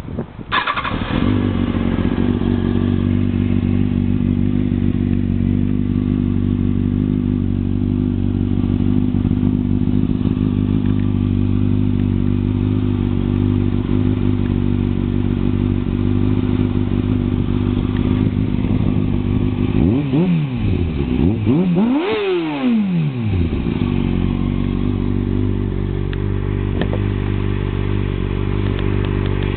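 Kawasaki ZX-6R 636 inline-four motorcycle engine with a Muzzy aftermarket exhaust idling steadily. About twenty seconds in the throttle is blipped twice in quick succession, the pitch rising and falling with each rev, before it settles back to idle.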